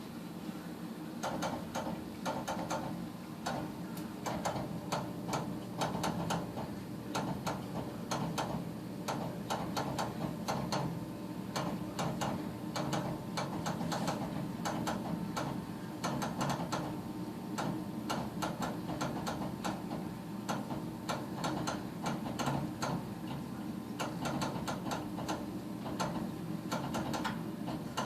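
Gas furnace running with a steady hum and rapid, irregular clicking throughout, on a furnace that does not fire on every cycle.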